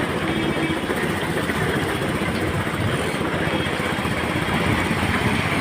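Steady vehicle noise: an engine running with road rumble, growing slightly louder near the end.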